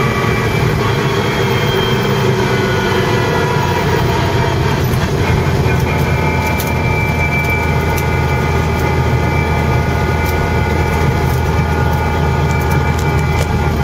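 Lotus Europa GT 1600's four-cylinder engine running under way, heard from inside the cabin. Its note breaks briefly about five seconds in, and sharp clicks and rattles come and go in the second half.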